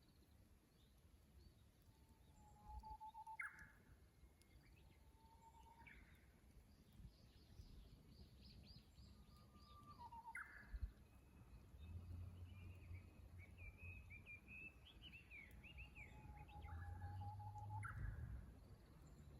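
Japanese bush warblers (uguisu) singing their "hoo-hokekyo" song, faint: a held low whistle ending in a quick sharp flourish, repeated several times, with other small birds chirping and warbling in between.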